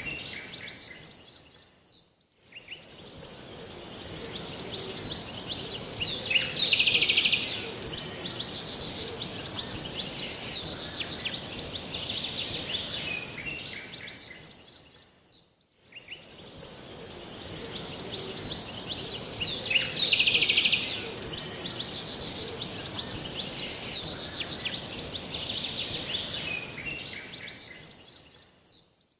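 Small birds chirping and singing in short, high trills over a steady outdoor background hiss, with a louder run of chirps twice. The sound fades out and back in twice.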